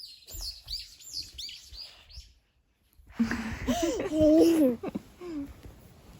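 A small bird chirping, a quick run of high notes that rise and fall, for the first couple of seconds. Then, about three seconds in, a young child's voice babbling and squealing for around two seconds, louder than the bird.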